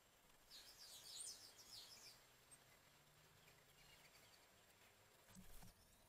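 Faint quick high-pitched bird chirps for about a second and a half, with a few weaker notes after. Near the end comes a short soft flutter and thump as an American robin lands on the rim of a birdbath.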